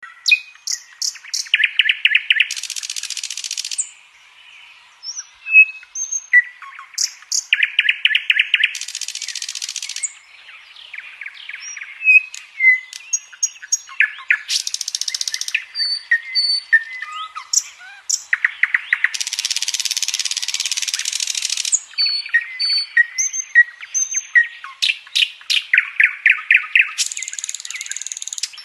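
Nightingale singing a varied song: fast runs of repeated notes, short clear whistles, and several long hissing, buzzy phrases, with brief pauses between phrases.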